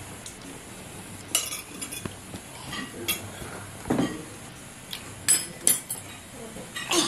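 Dishes and cutlery clinking: half a dozen separate sharp clinks and knocks of plates and utensils, spaced out over a few seconds.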